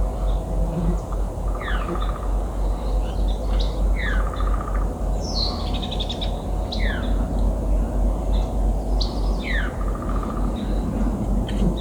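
A songbird repeats a short song about every two and a half seconds: a falling slurred whistle followed by a brief buzzy trill. A steady low rumble runs underneath.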